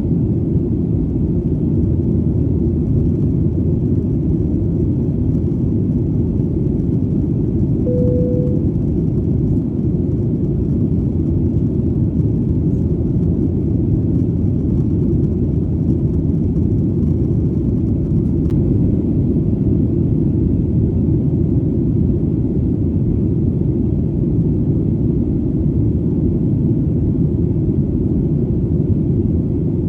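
Steady, unbroken low rumble of an airplane's engine drone, with a short tone about eight seconds in.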